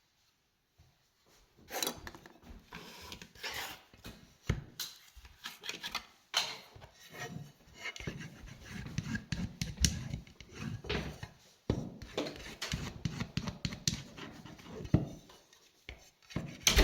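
Irregular rubbing and scraping strokes, starting about a second and a half in and going on unevenly in short strokes.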